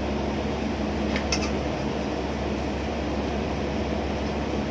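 Steady low mechanical drone of a ship's engines and machinery, with a couple of faint clicks about a second in.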